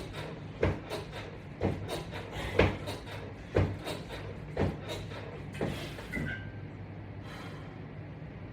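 Exercise equipment knocking and creaking in time with each repetition, about once a second, over a steady low hum. The knocks stop about six seconds in.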